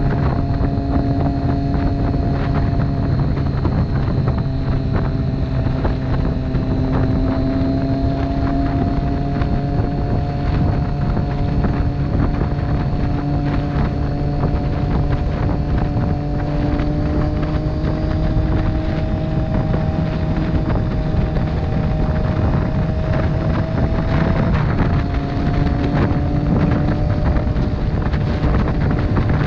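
Motorcycle engine running at speed under heavy wind noise on the microphone. The engine note climbs slowly, then breaks briefly about 24 seconds in before carrying on.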